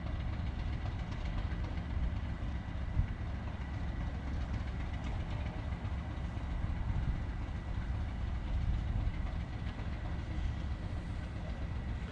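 Train hauled by a Class 37 diesel locomotive, running with a steady low rumble and a faint steady whine above it. There is a single knock about three seconds in.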